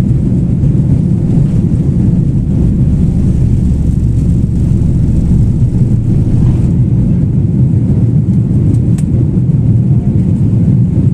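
Airliner taking off, heard through window glass: a loud, steady low rumble of engines at takeoff power.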